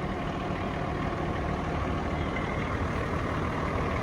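Kenworth T370's PX8 diesel engine idling steadily, a low even rumble.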